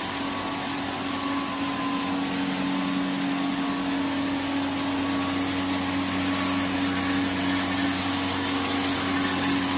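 A vacuum soup cooling machine running steadily: a constant mechanical hum under an even hiss, growing slightly louder toward the end.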